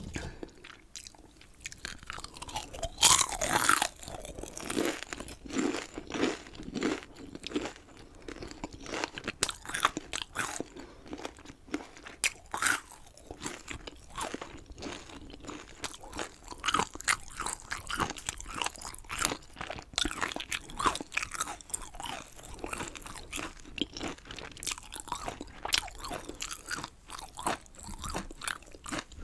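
Close-miked biting and chewing of crunchy chicken, with a steady run of wet crunches and clicks; the loudest bite comes about three seconds in.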